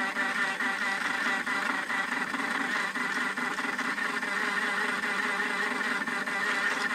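Battery-powered toy washing machine running, its small electric motor and drum whirring steadily.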